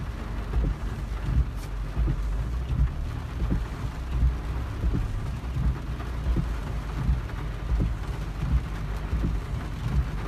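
Heavy rain drumming on the roof of a car, heard from inside the cabin as a steady low patter of many irregular dull thuds.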